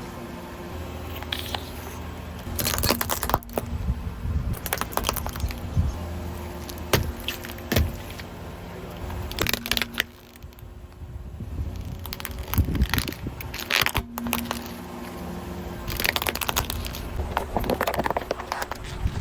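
Car tyre rolling over and crushing crunchy food: several bouts of crackling and snapping, over a car's low steady running hum.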